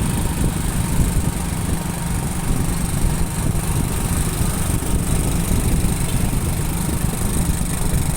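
Motorcycle running steadily while riding along a road, its engine mixed with a steady low rumble of wind and road noise.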